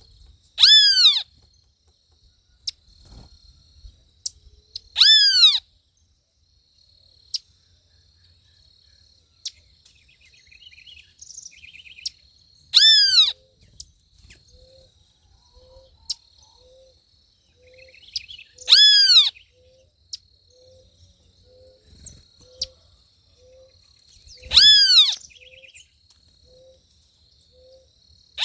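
Backyard birds calling. One bird repeats a loud, falling call about every six seconds, five times. Under it are a faint steady high trill and, from about halfway through, a soft low note repeated roughly one and a half times a second.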